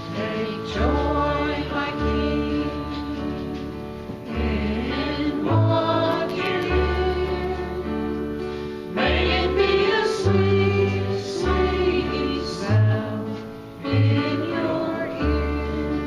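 A congregation singing a slow hymn together, with instrumental accompaniment holding long bass notes under the voices.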